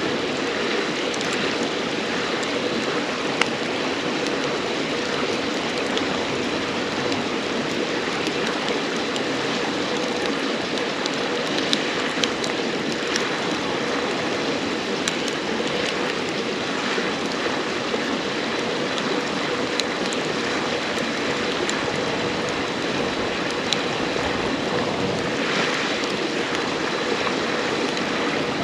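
A river flowing steadily, with scattered sharp crackles and pops from burning firewood.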